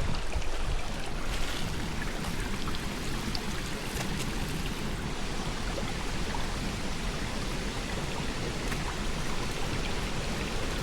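Small forest stream running steadily over rocks, with a few faint ticks.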